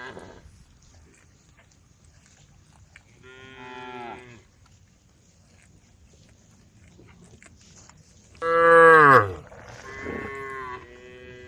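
Cows mooing: one call about three seconds in, a much louder one about eight and a half seconds in that drops in pitch as it ends, then two shorter calls near the end.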